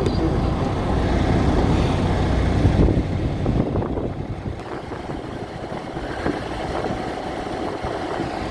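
Steady running noise of a semi-truck's engine.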